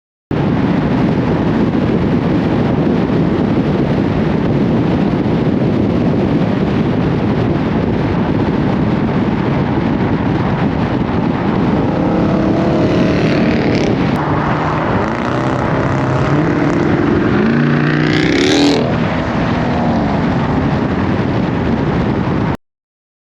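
Car engine and exhaust running loud over a dense rush of noise, revving several times from about twelve seconds in with pitch rising and falling, climbing highest near eighteen seconds before dropping back.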